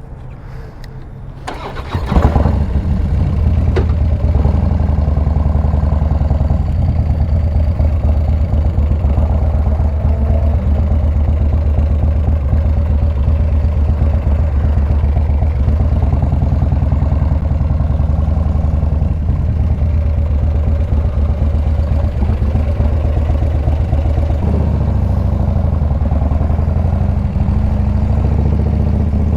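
Harley-Davidson V-twin motorcycle engine started about two seconds in, then running steadily with a deep low rumble.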